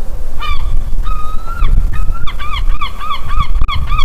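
A large waterbird honking: a couple of separate calls, then a rapid run of short, repeated honks about three a second from halfway in, over a low rumble.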